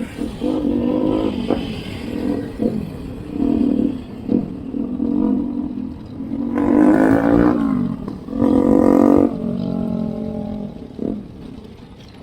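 Motor vehicle engines running close by in road traffic, coming and going, the loudest passing about halfway through with its pitch dropping as it goes by, over a steady low rumble of wind on the microphone.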